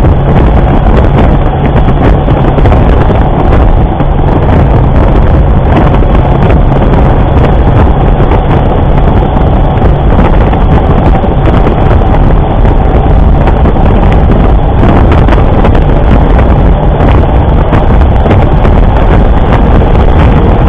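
Loud, steady wind noise buffeting a motorcycle-mounted camera's microphone while riding, with the motorcycle's engine running underneath.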